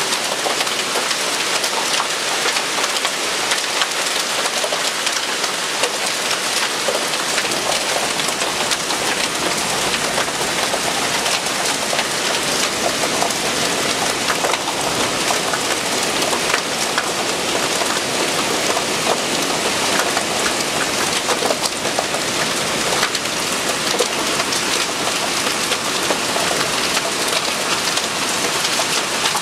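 Heavy thunderstorm rain falling steadily: a dense, even hiss of many drops striking the ground, roofs and leaves.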